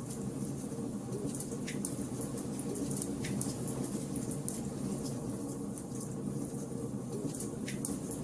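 Wood fire burning in a fireplace: a steady low rush of burning logs with frequent small crackles and a few sharper pops.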